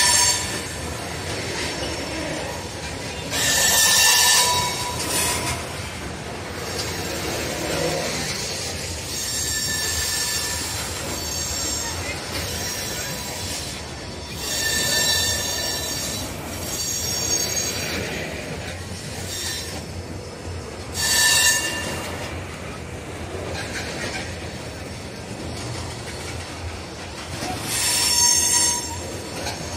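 BNSF covered hopper cars of a freight train rolling past with a steady rumble of wheels on rail. High-pitched steel wheel squeal flares up in short bursts about five or six times.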